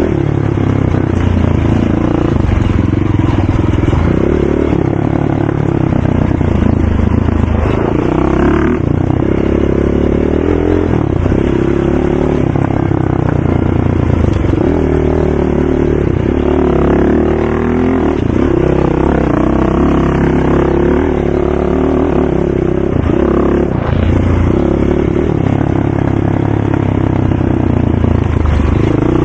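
ATV engine running hard, its pitch rising and falling again and again as the throttle is opened and backed off, with brief drops about nine, fourteen and twenty-four seconds in.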